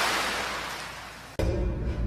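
Horror-style soundtrack: a loud wash of noise fades away over the first second and a half, then a sudden deep hit starts eerie music.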